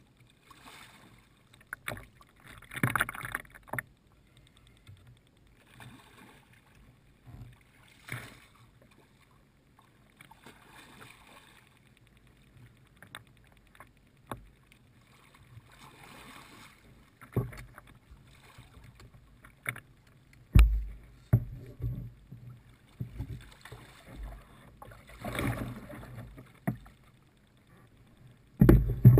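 Water splashing and sloshing around a plastic fishing kayak in irregular washes every few seconds, with scattered sharp knocks and a few heavy low thumps against the hull, the loudest about two-thirds of the way in and near the end.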